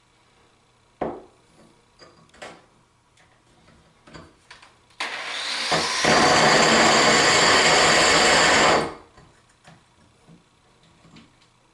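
A few light clicks and knocks of handling, then a corded electric drill with a diamond-coated bit spins up over about a second and grinds steadily into porcelain tile for about three seconds before stopping.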